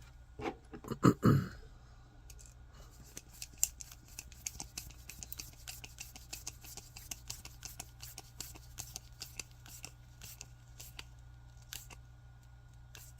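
Small 3D-printed plastic parts clicking and scraping as a hand is worked onto a forearm peg: a run of quick small clicks, with a couple of louder knocks about a second in.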